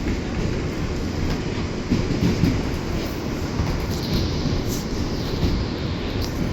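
New York City subway train running along the track, heard from inside the car: a steady low rumble of wheels on rail, with one or two faint brief high squeals.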